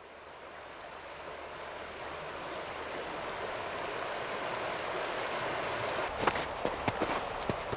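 River water rushing, growing louder over the first few seconds and then steady. From about six seconds in, a run of sharp, irregular knocks and clicks joins it.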